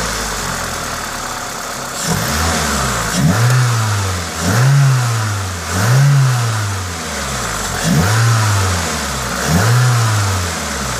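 Toyota 2ZZ-GE 1.8-litre four-cylinder engine idling, then blipped about five times, each rev rising and falling back, before settling to idle near the end. A steady hiss from the aftermarket induction kit runs under it. The owner presents this as the engine's normal noise.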